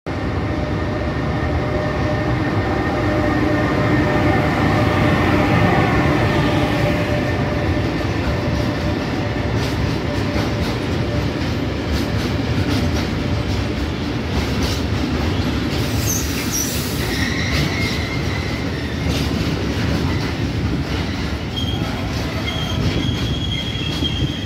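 FS E412 electric locomotive hauling a freight train of tank wagons past: a continuous rumble of wheels on rail, with whining tones that fall in pitch in the first several seconds as the locomotive goes by. Later come repeated clicks of wheels over the rails and brief high-pitched wheel squeals.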